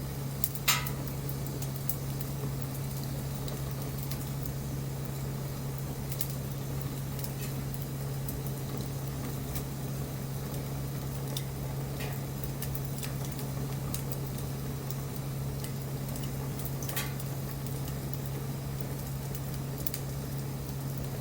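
Wood fire burning: a steady hiss with scattered crackles and sharp pops, the loudest pop under a second in, under a steady low hum.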